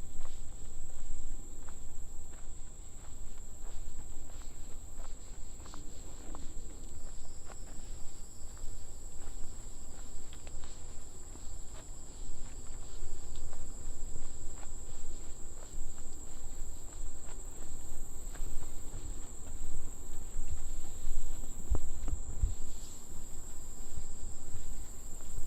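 Steady high-pitched drone of insects, with footsteps on a trail underneath.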